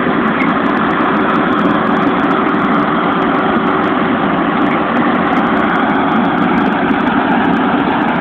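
Claas Axion tractor's diesel engine running steadily with a baler hitched on, a constant drone with one held hum note through it.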